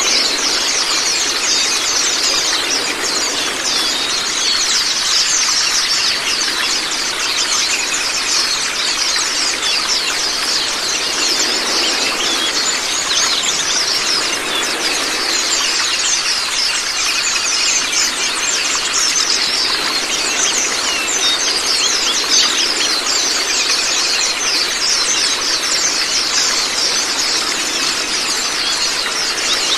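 A flock of white-eyes (Zosterops) chattering in rapid, high, thin chirps, overlapping without pause, over a steady rush of running water.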